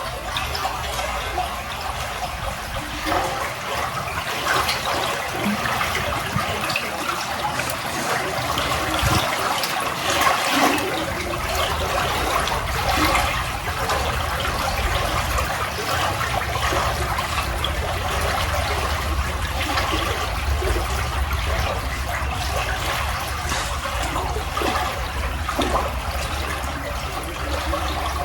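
Steady rush of flowing water, with a low rumble beneath it.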